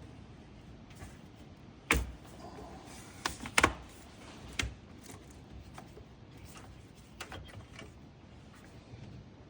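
Sharp clicks and knocks of parts and tools being handled in an engine bay while hoses and fittings are unhooked: loud knocks about two seconds in and twice around three and a half seconds, one more near the middle, then lighter ticks.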